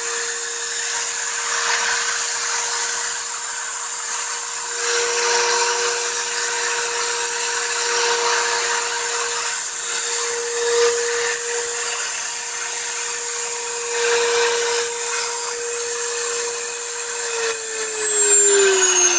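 Dremel 3000 rotary tool running at maximum speed with a steady, piercing high-pitched whistle, a noise that was not there when the tool was new. Near the end it is switched off and the whistle and motor hum fall in pitch as it spins down.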